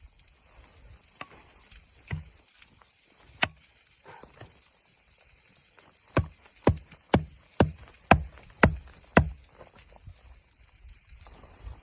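A few scattered sharp knocks, then a run of seven sharp knocks about two a second, like strokes of a hatchet or blows on wood.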